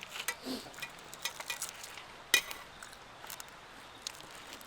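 Light clinks and taps of cutlery and dishes being handled, with one sharper knock about two and a half seconds in.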